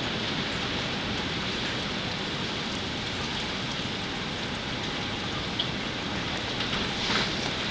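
Steady hiss of heavy rain in a hurricane storm, with a brief louder burst near the end.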